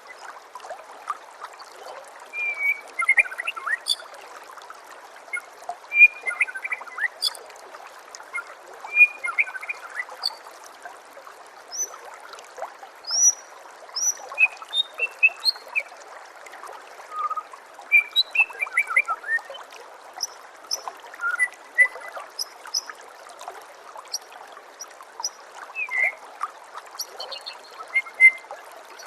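White-rumped shama (murai batu) calling in many short, scattered chirps and whistled notes over a steady trickle of running water.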